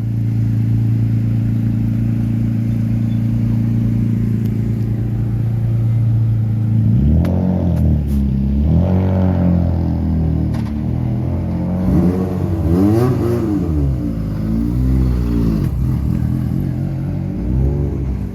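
Rally car engine held at steady revs for about seven seconds. It then pulls away hard, the revs climbing and dropping again and again through the gear changes, with a few sharp pops.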